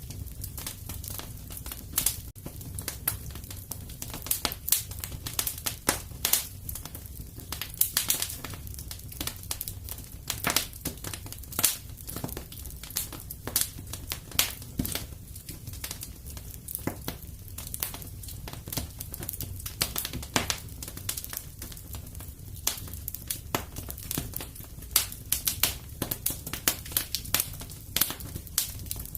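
Fire in a fireplace crackling: irregular sharp pops and snaps, several a second, over a low steady rumble.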